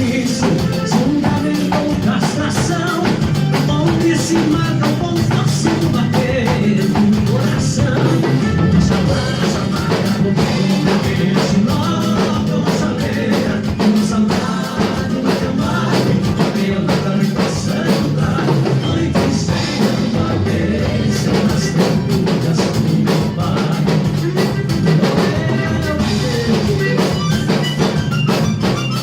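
A band playing music with a drum kit, continuously, as at an informal jam played without a soundcheck.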